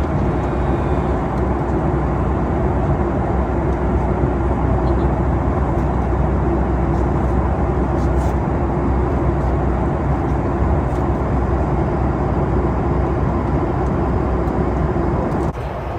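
Steady cabin noise of a Boeing 737 MAX 8 at cruise: an even rush of air with a low hum. It drops abruptly in level near the end.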